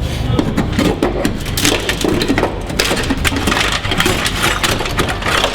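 Dry-ice-frozen body Schutz sound deadener cracking and breaking off a car body under a chisel: a rapid, irregular run of sharp cracks and clinks that sound like glass.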